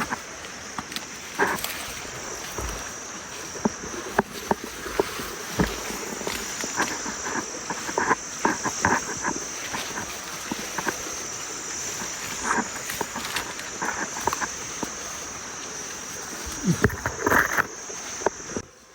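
Steady high-pitched chorus of calling animals, with many short clicks and brief calls scattered through it.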